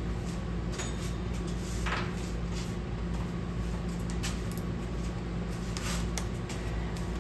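A few scattered metal clicks and clinks of hand tools working at a bolt on the engine, over a steady low background hum.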